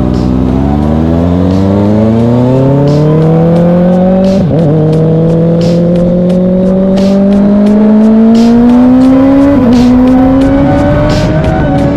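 Kawasaki ZX-6R inline-four engine accelerating under load, its pitch rising steadily and dropping sharply at an upshift about four and a half seconds in and again near ten seconds.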